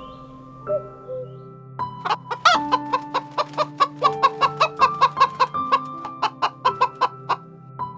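Chicken clucking in quick short calls, about four a second, starting about two seconds in, over background music with sustained notes.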